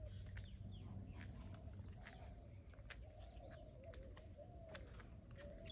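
Faint bird calls: a short, arched low-pitched call repeated every second or so, with scattered brief high chirps.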